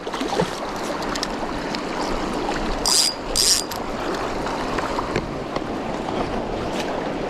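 Clear mountain stream rushing steadily over rocks. About three seconds in come two short, sharp, hissing sounds in quick succession.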